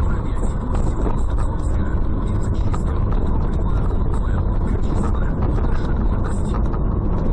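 Vehicle driving, heard through a dashcam inside it: a steady deep rumble of engine and road noise with constant small rattles and clicks.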